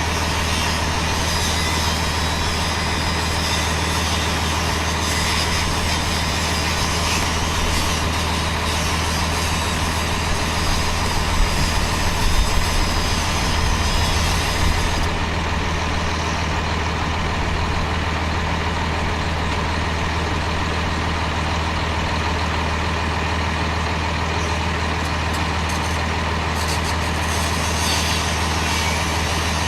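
An engine running steadily at idle, a low even drone, with a few knocks and clatters about eleven to fourteen seconds in.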